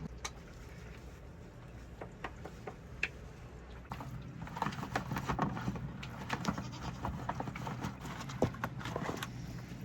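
Sheep or goats bleating several times, mixed with scattered clicks and knocks that become busier about four seconds in.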